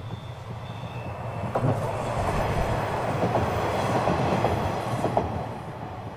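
Two-car diesel railcar train passing close by: engine and running noise swell up about a second and a half in, with several wheel clacks over the rail joints, then fade near the end.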